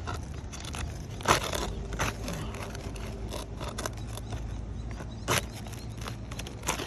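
Scraping and sharp clicks of a hand tool working on asphalt roof shingles as the last fasteners are pried loose, with two louder strikes, one a little over a second in and one about five seconds in.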